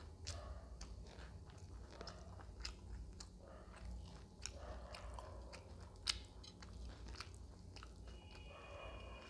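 Close-miked eating: a person chewing and biting food, with a steady run of wet mouth clicks and crunches and one sharper click about six seconds in.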